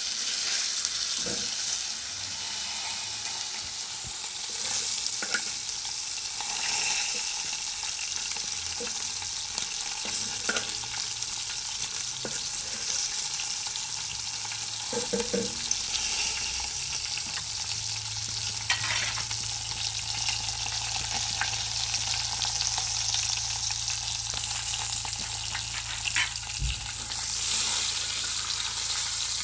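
Food frying in hot oil, a steady sizzle with scattered clicks and scrapes of stirring.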